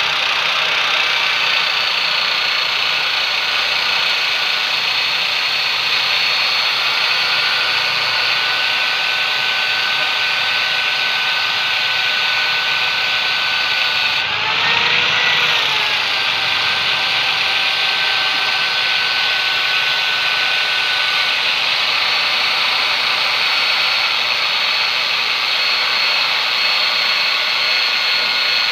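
A workshop power tool running steadily with a high whine. About halfway through, its pitch briefly rises and then settles back.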